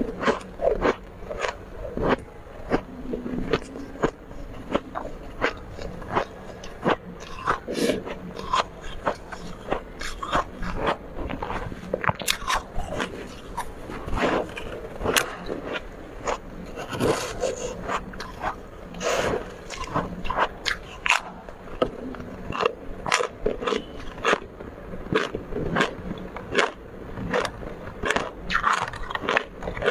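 Close-miked biting and chewing of soft, powdery freezer frost, a rapid, irregular run of crisp crunches.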